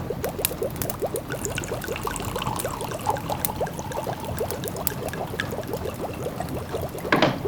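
A pot of food simmering, with small bubbles popping in a steady stream of about six a second, among light crackles from a wood fire. A louder pop comes about seven seconds in.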